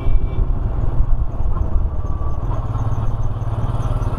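Royal Enfield Himalayan single-cylinder motorcycle engine running steadily while the bike is ridden, a continuous low rumble.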